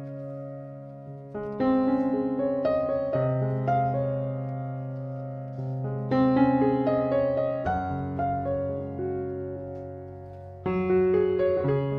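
Gentle piano music: chords and slow melody notes struck every second or two and left to ring and fade.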